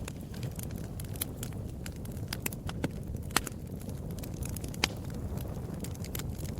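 Wood fire crackling: irregular sharp snaps and pops over a steady low rumble of burning, with two louder pops near the middle.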